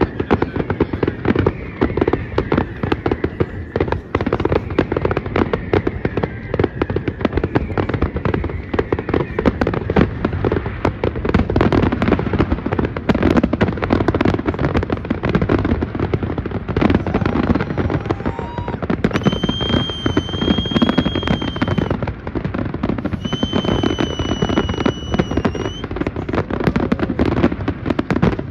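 Many fireworks going off at once: a continuous barrage of bangs and crackles. Two long, steady high-pitched whistles sound about two-thirds of the way through.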